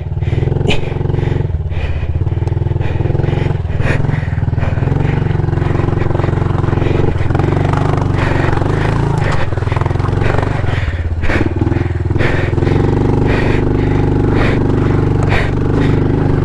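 Honda CRF110 pit bike's small single-cylinder four-stroke engine running at low revs, its pitch shifting as the throttle changes, with frequent knocks and clatter as the bike goes over rocks.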